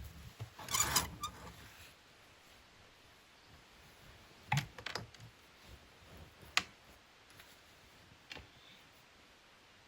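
A few sharp, scattered clicks and light knocks of small objects being handled, with a brief rustling clatter about a second in.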